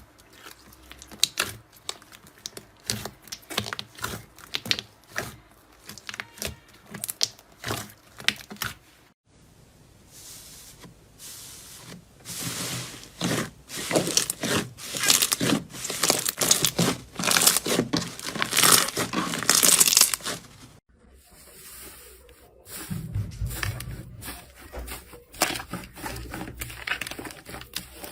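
Crunchy material being crushed and crinkled: first a string of separate crisp crackles, then a long dense run of loud crunching and crinkling. The crackling changes abruptly twice, near a third of the way in and again about three quarters of the way through, where a few low thuds join it.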